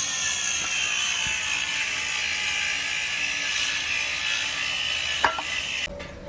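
Continuous ratchet-like clicking of a hand tool working on an engine fastener, with one sharp knock about five seconds in, then it cuts off abruptly just before the end.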